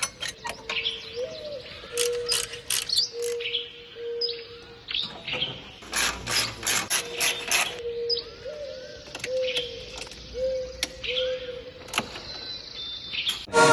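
Birds chirping repeatedly, with bursts of sharp mechanical clicking, densest about halfway through.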